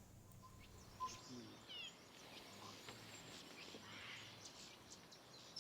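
Faint, scattered chirps and short calls of several small songbirds in the treetops, with a quick run of sliding notes about a second in.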